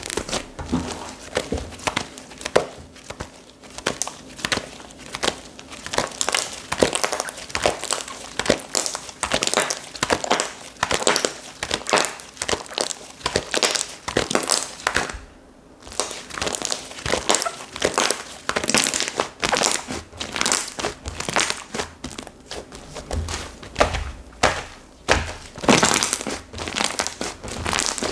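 Hands squishing, folding and stretching slime, making a dense, irregular run of crackling clicks and pops, with a brief pause about halfway through.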